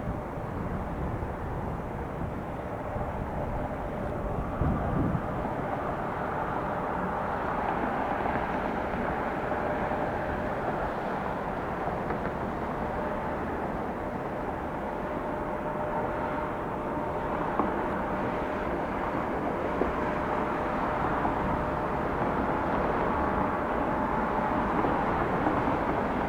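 Embraer E175 regional jet's twin turbofan engines running as it lands: a steady rushing noise with a thin, even whine over it.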